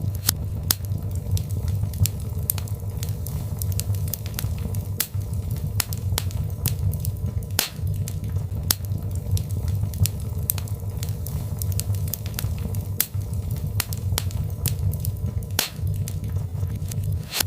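Birch logs burning in a fireplace: frequent sharp, irregular crackles and pops over a steady low rumble of the flames.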